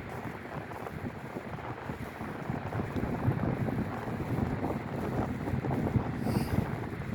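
Wind buffeting the microphone, a gusting rumble that grows louder about halfway through.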